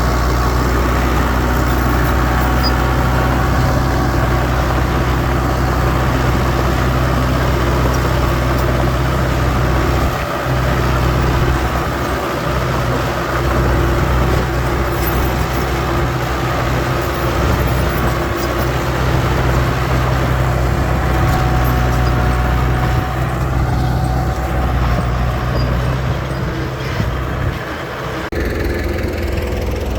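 Heavy diesel engine of earthmoving machinery running steadily with a deep, continuous drone, dipping briefly a few times.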